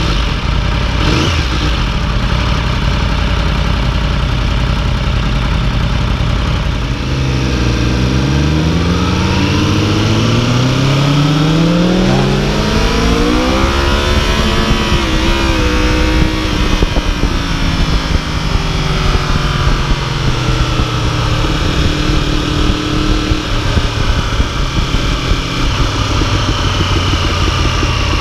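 2015 Yamaha YZF-R1's crossplane inline-four engine running on the road. Its pitch climbs steadily as the bike accelerates from about a quarter of the way in, then levels off and holds steady through the second half.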